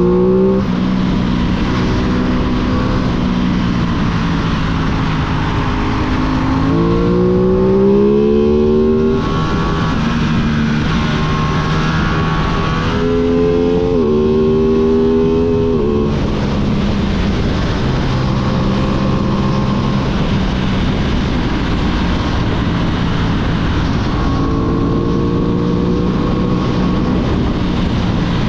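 Aprilia 660 parallel-twin motorcycle engine being revved and held, its pitch rising three times and holding steady between rises, over a constant broad noise.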